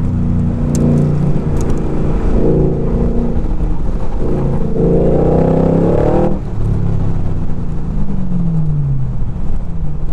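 Open roadster's engine run hard at high revs, its pitch rising and falling with the throttle, until the throttle closes sharply about six seconds in; the engine note then falls away as the car slows and settles to a steady low drone near the end.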